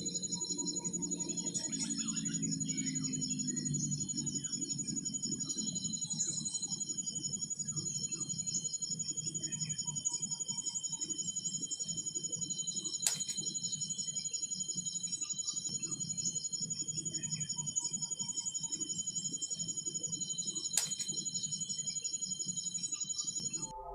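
Steady, high-pitched insect chorus of several finely pulsing trills, with short bird calls now and then and a low rumble that fades after the first few seconds. Two sharp clicks, one midway and one near the end.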